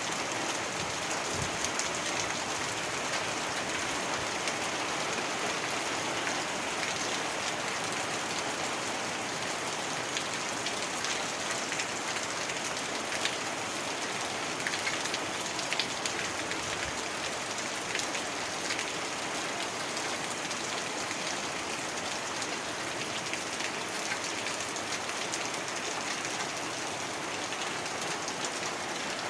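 Heavy rain falling steadily, a dense even hiss with scattered sharper drops ticking on a surface.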